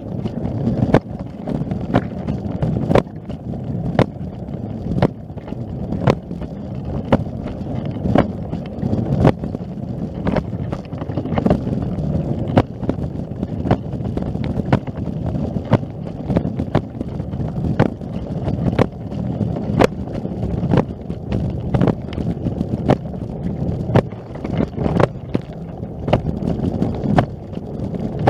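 Footsteps in snow, about one a second, over a steady low rumble.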